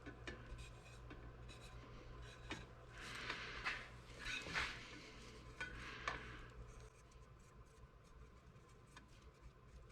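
Faint handling sounds of tools and parts: rubbing, scraping and light clinks, busiest about three to five seconds in, over a low steady hum that stops about seven seconds in.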